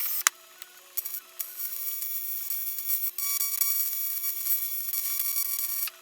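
Electric welding arc buzzing on an aluminium casting, struck and broken several times in short runs, the longest lasting about three seconds near the end. A faint steady hum from the welder runs underneath.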